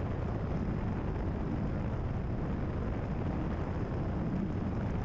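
Cessna 172RG cabin noise in flight: the engine and propeller drone steadily with airflow noise, heard inside the cockpit.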